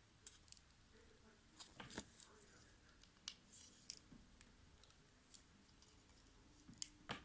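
Faint, scattered clicks and snaps of small plastic parts as a cheap headphone earcup is pried and broken apart to free its speaker driver, the loudest snaps about two seconds in and near the end.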